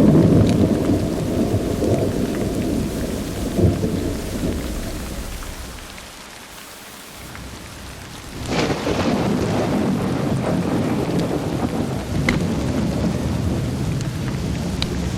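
Thunderstorm with steady rain. A low rolling rumble of thunder dies away over the first several seconds, then a sudden thunderclap about eight and a half seconds in opens into a fresh rumble, with a few sharp ticks near the end.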